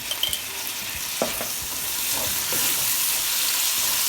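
Onion, tomato and green chili masala sizzling in hot oil in a kadai, with a single sharp clink about a second in; the sizzle grows louder in the second half.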